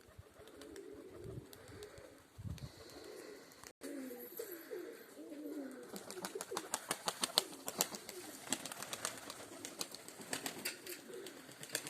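Domestic pigeons cooing, with a rapid run of sharp clicks setting in about halfway through.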